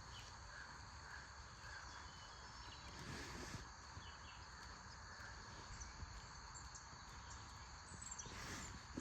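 Faint, steady chorus of chirring insects, with two brief rustling noises, one about three seconds in and one near the end.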